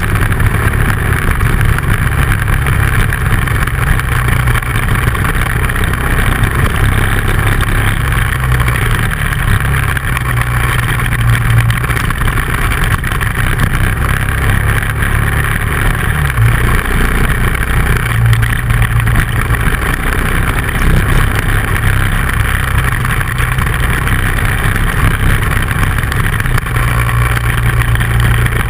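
Dual-sport motorcycle engine running while riding on a gravel road, its note stepping up and down a few times with throttle and gear changes, over a steady rush of wind and tyre noise.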